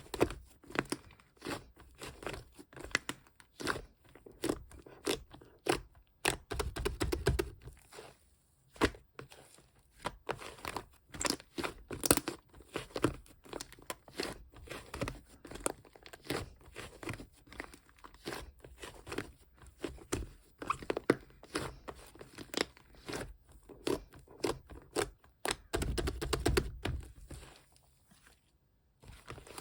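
Fluffy shaving-foam slime being squeezed and pressed by hand, giving a dense, irregular run of small clicks and pops, with a short pause near the end.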